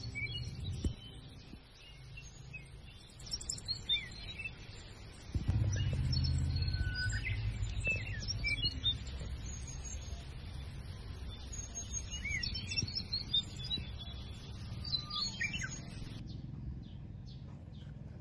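Small birds chirping and calling on and off, short quick notes, over a steady low rumble that gets louder about five seconds in.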